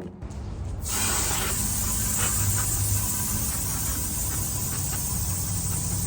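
Water spraying from a hose onto a wooden board to wash off grime: a steady hiss that starts about a second in.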